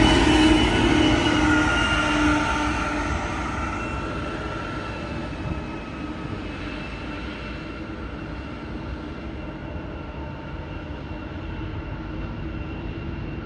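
Diesel-electric locomotives of a loaded coal train rumbling past with a steady whine, the engine and wheel noise fading over several seconds as the train moves away.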